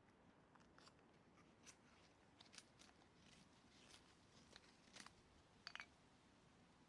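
A faint run of irregular sharp clicks and small snaps, a dozen or so at uneven spacing, with a quick cluster of the loudest a little before the end.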